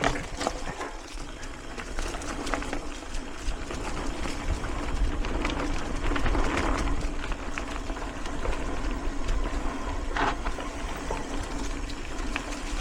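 Mountain bike riding on dirt singletrack: tyre noise on the trail with scattered clicks and rattles from the bike, over a low rumble.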